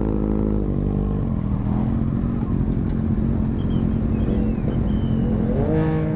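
Motorcycle engine idling steadily, settling down from a rev in the first second and revving up briefly near the end.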